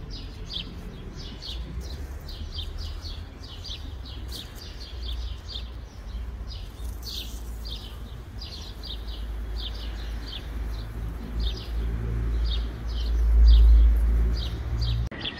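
A bird chirping over and over, about two or three short high chirps a second, over a steady low rumble that swells near the end.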